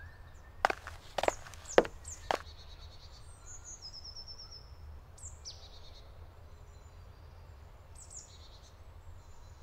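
Woodland birds chirping, with a short run of high notes falling in pitch. About a second in come four sharp knocks or clicks in quick succession, the loudest sounds here, over a faint low rumble.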